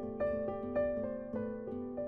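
Gentle background music of plucked harp-like notes, each note struck and fading, about two a second, over a soft chordal accompaniment.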